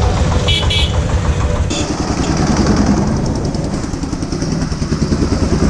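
Motorcycle engine running steadily while riding through town traffic, with brief high-pitched tones about half a second in.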